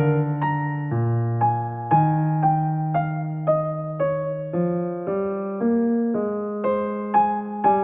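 Background music: gentle electric piano playing a slow melody, notes struck about every half second and fading away.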